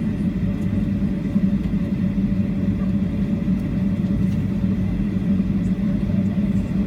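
Steady rumble of a jet airliner heard from inside the cabin, its engines running with a low, even hum.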